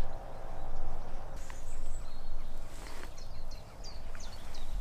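Small birds chirping, in short, high, quick notes that start about a second and a half in and come thicker toward the end, over a steady low rumble.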